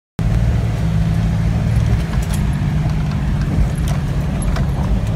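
Jeep engine running, heard from inside the cab as a steady low drone over a hiss of water and wind, with scattered sharp ticks and rattles. It cuts in abruptly just after the start.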